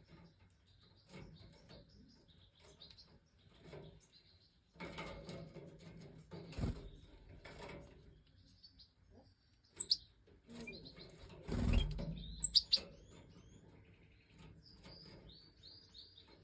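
Major goldfinches chirping in short, high calls, with two spells of rustling and wing flutter. The sharpest chirps come about two-thirds of the way in, and a quick run of short notes follows near the end.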